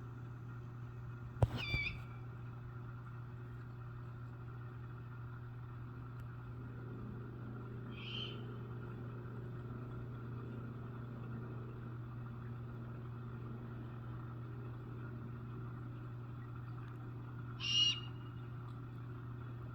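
Barn owls calling to each other: three short, high-pitched calls spread over the stretch, the first and last loudest, over a steady low hum.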